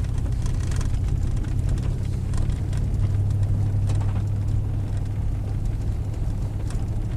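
Steady low drone of a pickup truck's engine and tyres heard from inside the cab while driving slowly up a rough road, with a few faint light rattles.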